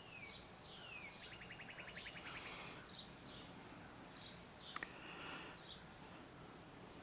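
Faint birdsong: several short chirps and down-slurred whistles, with a rapid trill about a second in. A single sharp click a little under five seconds in.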